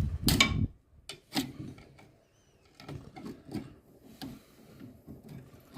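Scattered metal clicks, taps and light scrapes of hand tools working at a car's brake caliper and its pad retainer, irregular and a few per second, with a brief pause about two seconds in.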